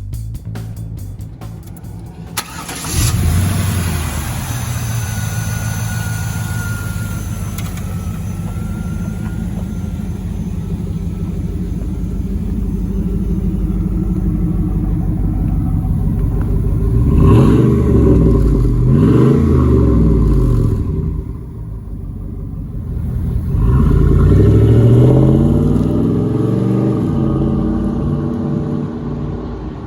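1997 Pontiac Trans Am's 5.7-litre LT1 V8 starting up about three seconds in, then idling, with two blips of the throttle, about 17 and 24 seconds in, that rise and fall in pitch.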